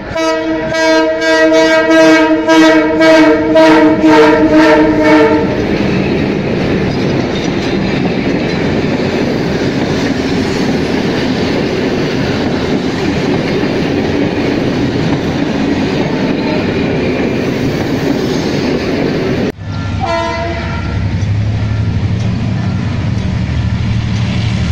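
Diesel locomotive horn sounding one long warning blast of several tones for about five seconds as the train nears the crossing, then the coaches rolling close past with a steady clatter of wheels on the rails. About three-quarters of the way through, the sound breaks off suddenly and a lower rumble follows.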